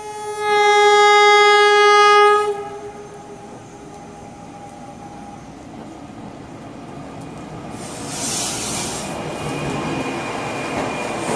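NJ Transit Arrow III electric multiple-unit train sounding its horn in one long blast of about two seconds. Its rumble and wheel noise then grow as it rolls in alongside the platform, with a brief hiss about eight seconds in.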